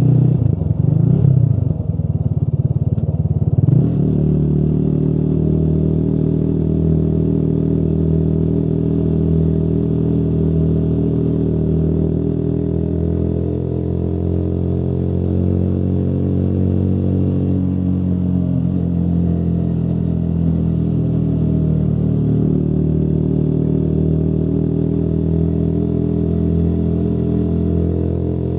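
Motorcycle engine running under way. Its pitch jumps about for the first few seconds, then it settles into a steady cruise with gentle rises and falls in engine speed.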